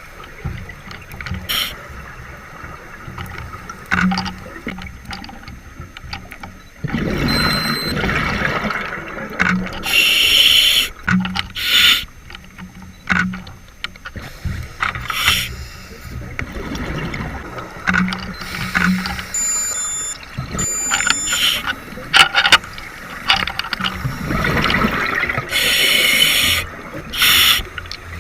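Scuba diver breathing through a regulator underwater: hissing inhalations and loud rushing bursts of exhaled bubbles, repeated every few seconds.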